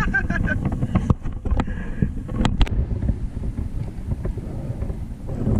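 Wind buffeting the microphone on a kayak at sea, a steady low rumble, with a few sharp knocks about one, one and a half and two and a half seconds in.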